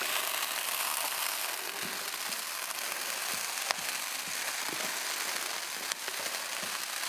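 Food sizzling as it browns in a hot skillet: a steady frying hiss with a few sharp pops.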